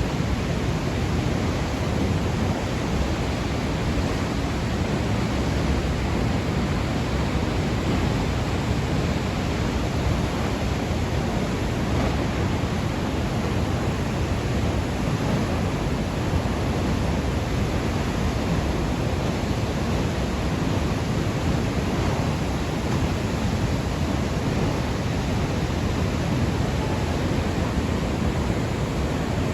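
Steady, unbroken roar of rushing water from Elk Falls, a 25-metre waterfall on the Campbell River.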